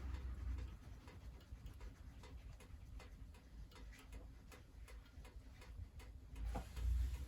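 Firewood burning in a wood stove, crackling and popping in irregular sharp clicks, over a low rumble that swells briefly near the end.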